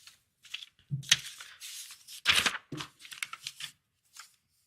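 Irregular rustling and soft knocks close to the microphone: handling noise, as of papers or the microphone being moved, in short uneven bursts.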